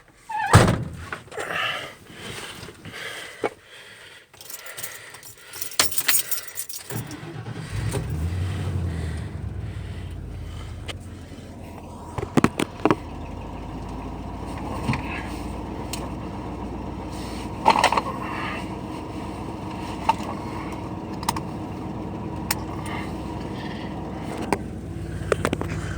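Keys jangling and handling clatter, then a vehicle engine starts about seven seconds in and runs steadily, with a few sharp clicks over it.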